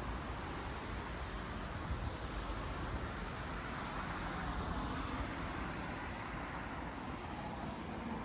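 Steady traffic noise from cars passing on a busy road.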